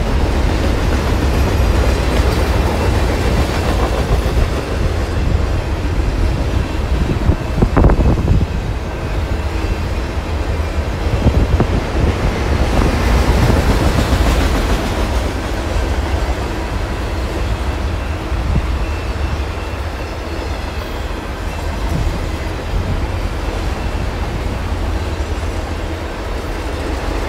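BNSF freight train of autorack cars rolling past at speed, a steady rumble of steel wheels on rail with clatter from the cars. There is one sharp knock about eight seconds in.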